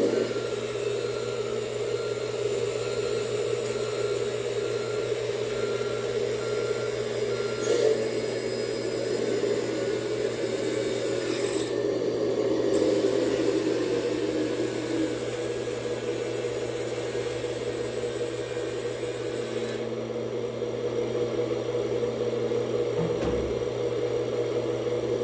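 Hydraulic pump and electric motors of an RC Lesu LT5 tracked skid loader whirring steadily as it works, with a thin high whine that drops out briefly about halfway through and stops about three-quarters of the way in.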